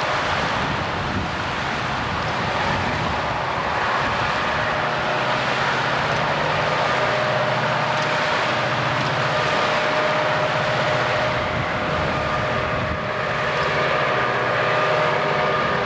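Loud, steady rumble of a coal train passing, led by EMD SD40 locomotives with their 16-cylinder two-stroke diesels working, mixed with the rolling noise of steel wheels on rail. A faint steady high tone runs through it.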